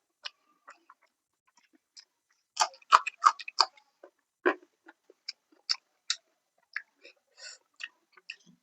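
Close-miked eating sounds: irregular short chewing and mouth smacks from someone eating fish curry and salad, with a quick run of louder ones around three seconds in.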